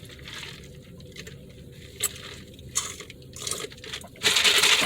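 Sipping Sprite from a fast-food cup through a straw: a few small clicks of ice and cup, then a loud slurp about four seconds in.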